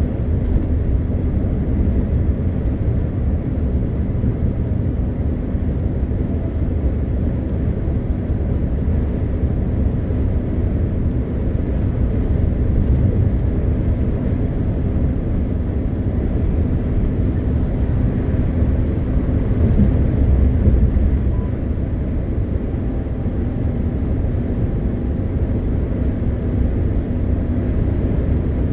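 MAN TGX 520 truck under way: the 12.4-litre straight-six diesel drones steadily with road and tyre noise, a continuous low rumble that swells slightly about two-thirds of the way through.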